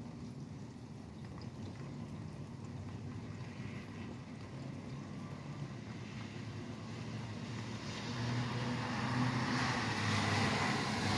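Steady rain beside a highway, with a low traffic rumble under it. About eight seconds in, a vehicle draws near and its engine rumble and wet-tyre hiss swell louder.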